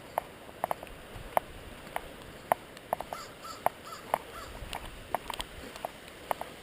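Footsteps squelching and clicking in wet mud and slush, about two sharp steps a second. About three seconds in, a bird calls a few times in short, quick notes.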